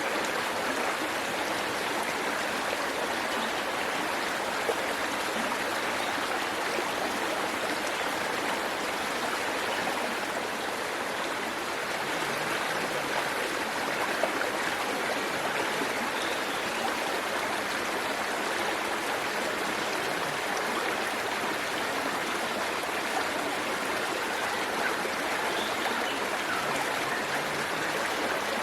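Waterfall and stream water rushing steadily, with no let-up.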